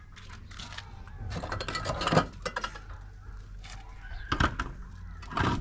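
Rustling, with a few sharp knocks and clatters of objects being handled, the loudest about two seconds in, near four and a half seconds, and at the end.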